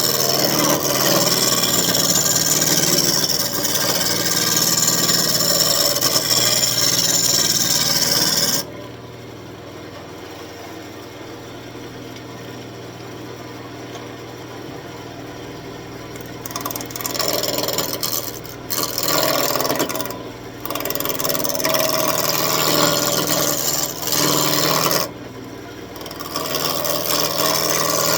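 Turning tool cutting a spinning elm blank on a wood lathe: a scraping, hissing cut as the blank is roughed toward round. The cut stops about eight seconds in, leaving the lathe motor's steady hum, then comes back in several short passes with brief pauses between them.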